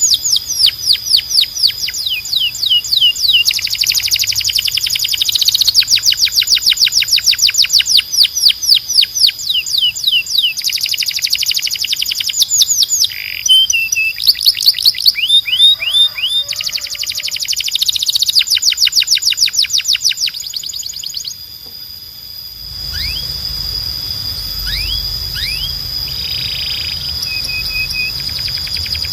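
Canary singing: fast rolling trills of rapidly repeated notes in bursts of a few seconds, over a steady high whistling tone. About three-quarters of the way through the trills stop and only a few scattered chirps follow.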